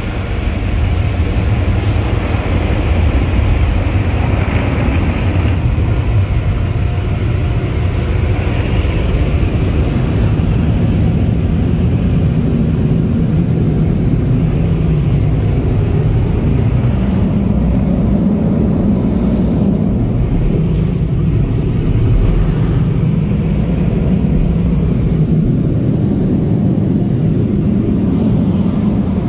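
Automatic car wash tunnel equipment running, heard from inside the car: a loud, steady rumble and rush of noise.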